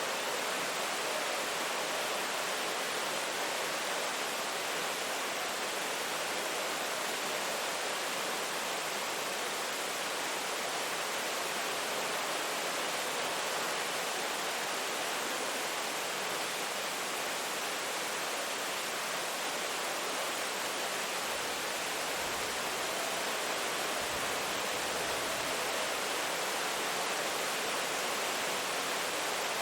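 Steady rain falling, an even unbroken hiss with no individual drops or thunder standing out.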